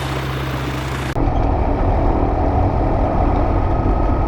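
Light bush plane's piston engine and propeller idling on the ground, a steady low drone that turns suddenly louder about a second in.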